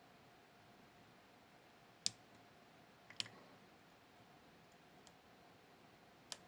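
A few sharp, isolated clicks from a dimple pick working the pins of a Miwa JC (Kaba Star Orion) dimple lock: one about two seconds in, another about a second later, and a third near the end, over a quiet background.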